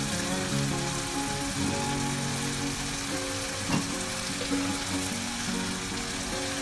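Food sizzling steadily in a pan over background music, with a single light knock a little past halfway.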